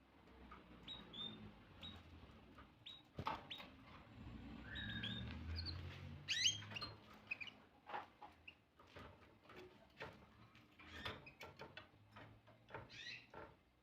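Canary giving short, high chirps and call notes, mixed with many scattered small clicks and taps.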